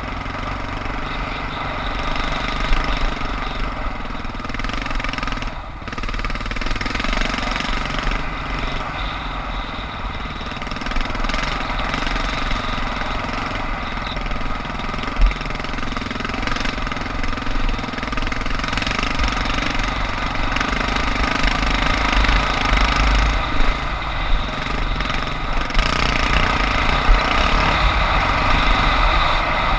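Suzuki DR650's single-cylinder four-stroke engine running steadily as the bike is ridden along a dirt single track, with a few sharp knocks along the way.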